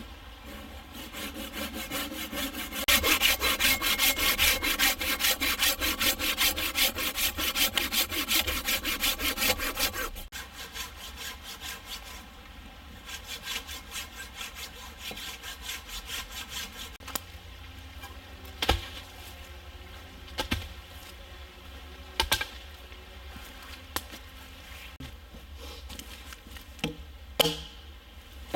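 Hand saw cutting through a wooden branch in quick, regular strokes, loudest in the first ten seconds or so, then fainter. A few sharp knocks of wood follow in the second half.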